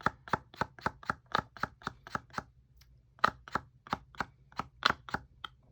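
Light, rapid taps of an alcohol marker being flicked to splatter ink from its brush tip, about four a second, with a short pause a little past halfway.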